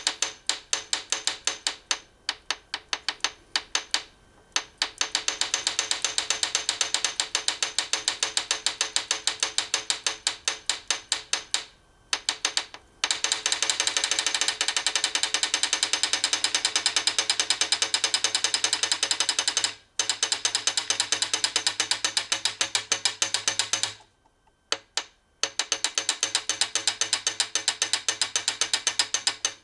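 Hand ratchet wrench clicking fast as bolts are turned on a car engine, in long runs with short pauses about two seconds in, near twelve seconds and near twenty seconds, and a longer break a little before the end.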